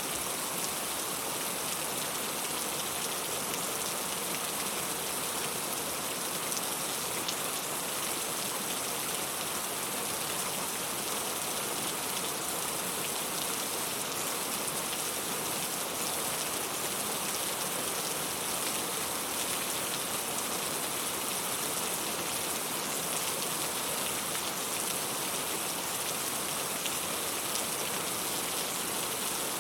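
Steady rain falling: a bright, even hiss of rain with faint scattered drop ticks.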